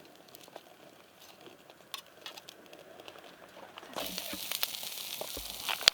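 Wood fire crackling under a grill, with scattered faint pops and ticks. About four seconds in it suddenly gets louder: a steady hiss full of crackles, like fish sizzling over the flames.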